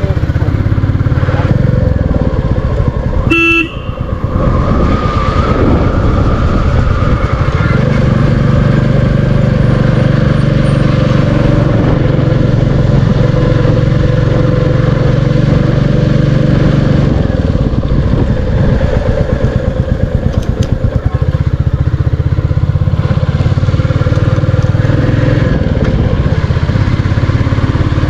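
Royal Enfield Classic 350's single-cylinder engine running steadily while riding, with one short horn beep about three and a half seconds in.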